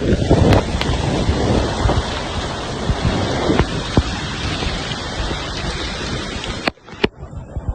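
Loud, steady rushing of floodwater, with a few sharp knocks through it; it cuts off abruptly near the end.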